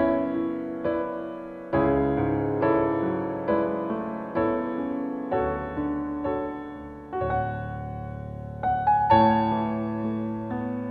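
Background piano music: slow, soft chords struck about once a second and left to ring out.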